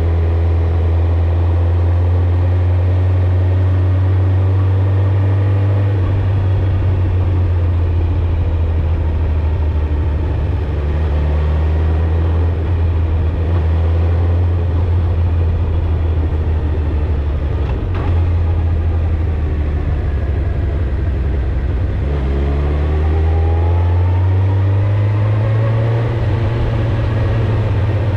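Suzuki GSX-R1000 inline-four engine and exhaust running at a steady cruise, dipping slightly in pitch about six seconds in, then rising in pitch near the end as the bike accelerates.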